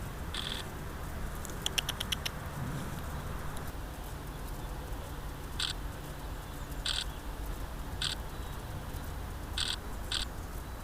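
Camera shutter clicks from a Sony RX10 IV: a quick burst of about six even clicks around two seconds in, then single clicks every second or so, over low wind rumble on the microphone.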